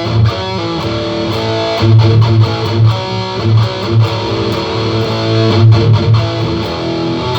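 Electric guitar played through a Korg AX1000G multi-effects processor and amplifier, picking a loose run of low notes and higher single notes that ring on with the effect.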